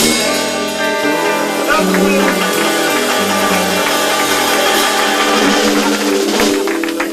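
Loud live blues band playing, with bass, drums and sustained chords.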